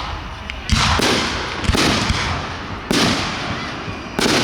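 Aerial fireworks shells bursting: four loud bangs about a second apart, each trailing off in a reverberant tail.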